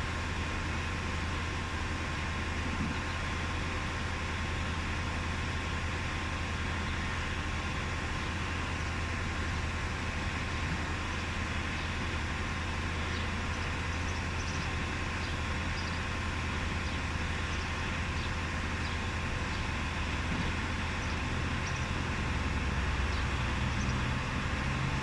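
Steady low mechanical hum with a thin steady tone above it and faint scattered ticks; the hum grows a little louder near the end.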